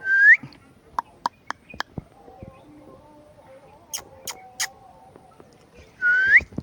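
Indian ringneck parrot giving two short whistled calls, each dipping and then sweeping up in pitch, one at the start and one near the end. Sharp clicks are scattered between the calls.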